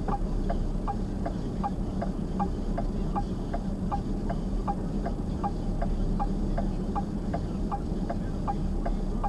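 A car's indicator flasher clicking steadily, about two and a half clicks a second, over a steady low engine hum.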